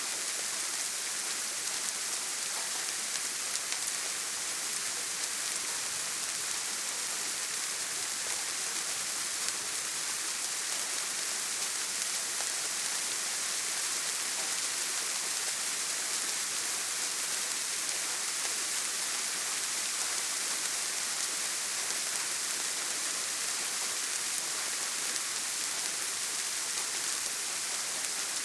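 Steady heavy rain falling on a tin roof: an even, dense hiss strongest in the high range, with no thunder.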